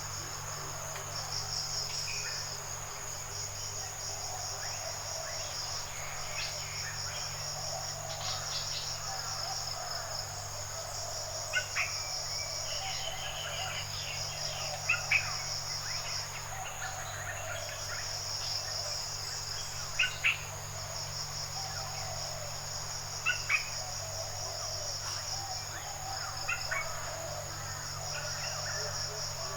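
Forest ambience: insects trilling steadily at a high pitch in long pulsing phrases, with a bird giving short sharp double chirps about every three to five seconds and a steady low hum underneath.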